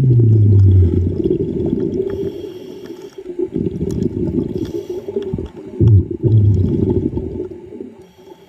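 A diver's exhaled air bubbling out underwater: a long gurgling rush of bubbles, a quieter pause, then another exhalation about six seconds in, each starting with a short falling low tone.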